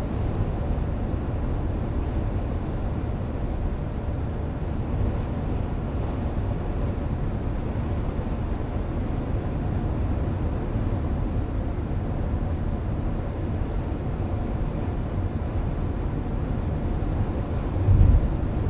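Steady low road and engine rumble of a car driving, heard from inside the cabin. A brief thump comes near the end.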